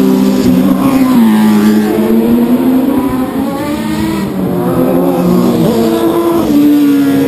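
Several racing motorcycle engines running hard at once, their pitch climbing and dropping in steps with throttle and gear changes.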